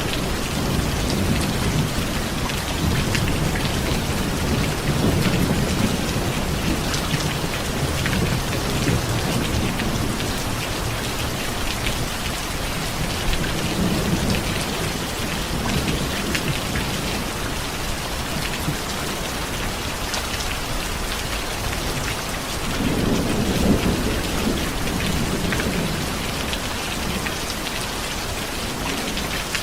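Steady rain falling, with low rolling thunder rumbling underneath; the thunder swells at the start and again about three-quarters of the way through.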